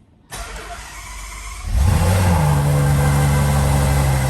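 Ferrari GTC4Lusso's V12 engine cold-started: the starter cranks for about a second and a half, then the engine catches with a brief rising rev flare and settles into a steady fast idle.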